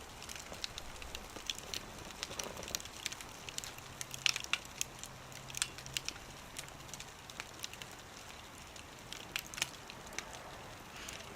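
Wood fire crackling in a small wood stove, with irregular sharp pops and snaps. A few louder pops come about four to six seconds in and again near the end.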